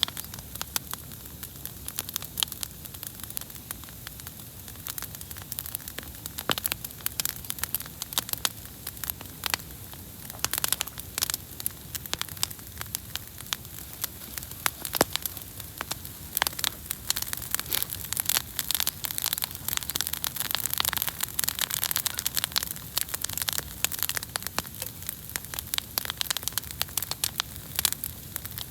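Wood campfire crackling, with many irregular sharp pops and snaps over a steady soft hiss.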